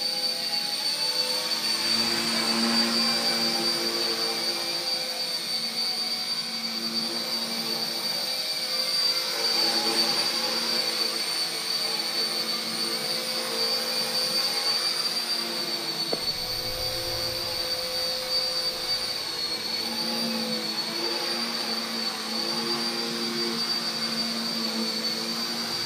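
RC Era C032 UH-1 Huey toy RC helicopter hovering: the steady high whine of its small electric motors and the buzz of its rotors, the pitch wavering slightly as the throttle shifts.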